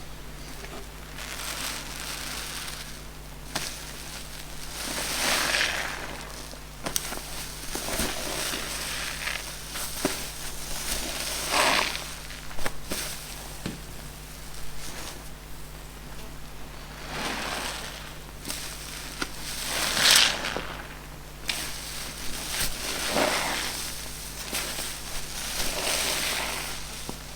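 New car-wash sponges being squeezed by hand, over and over. Each squeeze swells up and fades with a crackling, crushing texture, about every three to six seconds.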